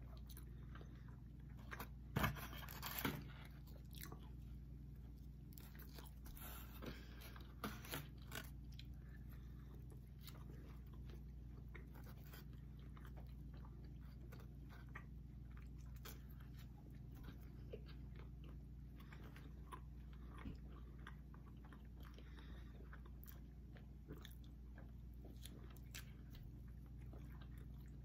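People chewing and biting pizza close to the microphone, with a few louder crunchy bites about two to three seconds in and again around seven seconds, then quieter chewing with small mouth clicks, over a steady low hum.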